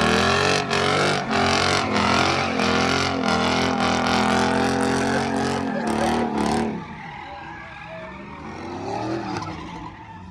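Truck engine held at high revs through a loud exhaust while the tires spin on beer-wetted pavement in a burnout, with sharp crackles throughout. About seven seconds in it cuts back suddenly to a much quieter engine that rises and falls in pitch.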